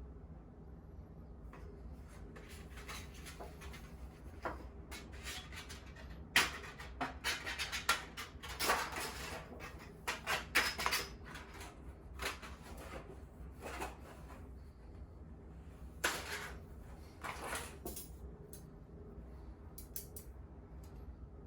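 Objects being handled, with irregular bursts of scraping and rustling, busiest from about six to eleven seconds in and again around sixteen to eighteen seconds, over a steady low hum.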